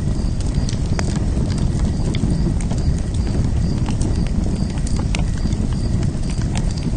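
Wood fire burning with a low, steady roar and scattered sharp crackles and pops.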